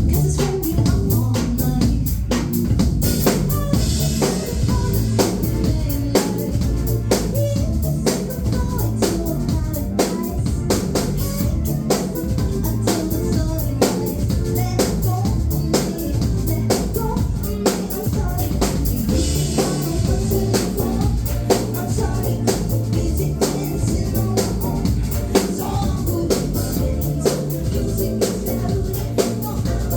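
Live band music, loud through the venue's sound system: a drum kit keeps a steady beat of kick and snare hits over heavy bass and other instruments.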